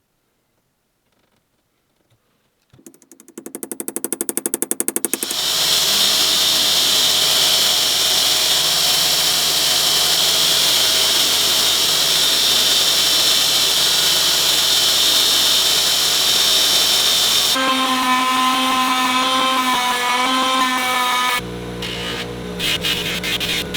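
An electric power tool starts up: a pulsing that speeds up as the motor spins up, then a loud steady run with a hissing whine. Its sound changes partway through and again near the end.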